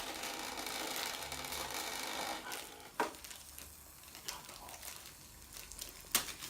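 Plastic toy packaging rustling and crinkling as it is handled and opened, then two sharp clicks, about three seconds in and near the end.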